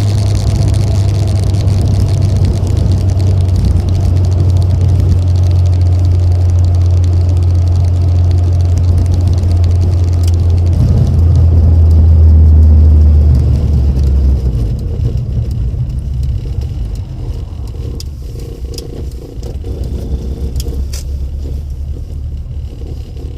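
Classic Rover Mini's four-cylinder engine droning through an aftermarket sports muffler while driving, a steady low note. About eleven seconds in the note drops in pitch and swells, then fades away after about fourteen seconds as the car eases off, leaving a quieter engine and road sound.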